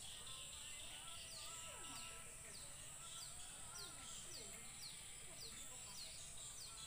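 Faint outdoor ambience: a bird repeats a short, falling chirp about twice a second over a steady high-pitched drone.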